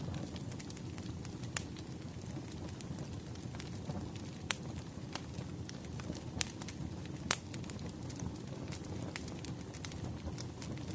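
Wood fire crackling: a steady low rumble of burning logs with scattered sharp pops and snaps, a few of them louder.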